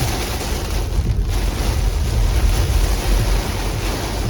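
Heavy rain pounding on a moving car, a steady wash of noise over a low road rumble, heard from inside the vehicle; it dips briefly about a second in.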